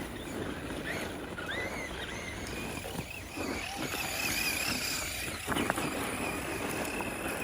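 Electric motor of a Tamiya Monster Beetle RC monster truck whining, its pitch rising and falling with the throttle as it laps the track, over steady outdoor noise. A sharp tick comes about five and a half seconds in.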